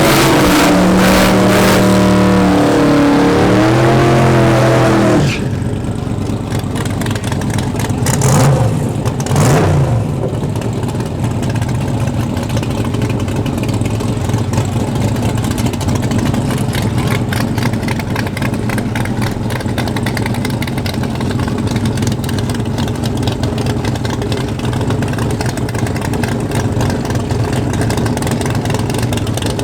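Turbocharged drag car engine at full throttle for about five seconds, its pitch climbing and stepping as it goes through the gears, then falling away to a steady low engine rumble with two short rev blips a few seconds later.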